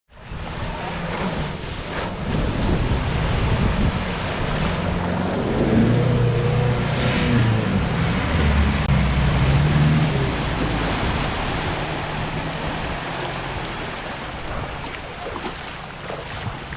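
Four-wheel drive's engine working hard as it ploughs through a deep creek crossing, with water rushing and splashing around it. The engine gets louder about halfway through, then eases off.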